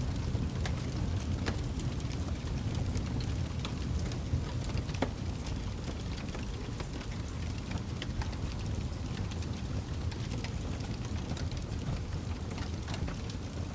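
Campfire burning steadily, with a low rumble of flame and scattered sharp crackles and pops from the burning wood.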